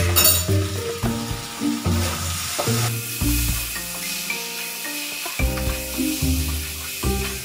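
A spatula stirring and scraping Gobindobhog rice and spice masala as it stir-fries in a kadai, the mix sizzling steadily. Background music notes play underneath.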